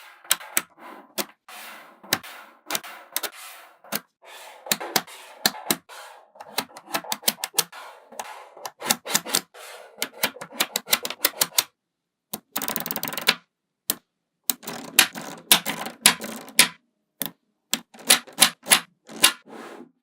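Small magnetic balls clicking and clacking as they snap together, in irregular clusters of sharp clicks. A little past the middle comes a brief continuous rattle of many balls at once.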